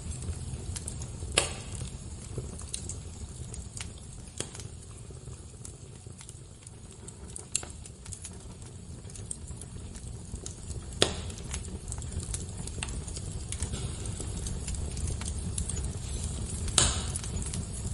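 Fire crackling: scattered small pops over a steady low rumble, with three sharper, louder pops, one near the start, one past the middle and one near the end.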